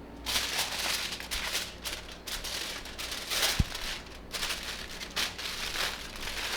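Aluminium foil crinkling in irregular bursts as it is folded around a seasoned fish, with one short low knock about three and a half seconds in.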